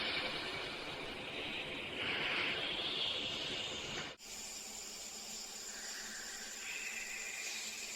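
Steady hissing ambience that cuts off sharply about four seconds in and gives way to a quieter hiss with a faint steady high tone.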